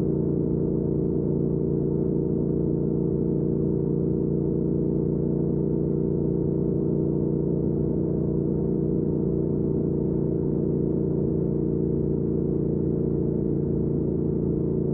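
2019 Triumph Speed Twin's 1200 cc parallel-twin engine with a Weslake Shorty Pro aftermarket exhaust, running at a steady cruise. The exhaust note holds one even pitch with no revving or gear changes.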